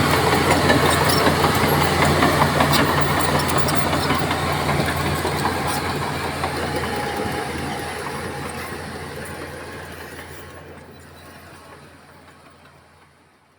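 Bulldozer diesel engine running with a steady low drone and scattered metallic clanks, gradually fading away to nothing.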